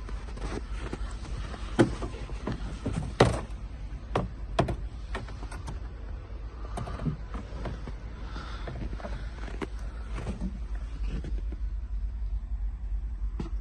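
Clicks and knocks of handling on a truck, the loudest about 2, 3 and 4.5 seconds in, over a steady low rumble.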